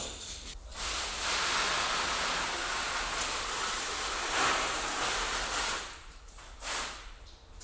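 Water spraying onto a car, a steady hiss lasting about five seconds, then a short second burst near the end.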